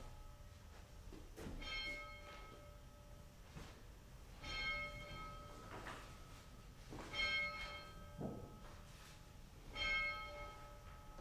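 A single church bell tolling slowly: four strokes about three seconds apart, each ringing on with a rich, lingering hum.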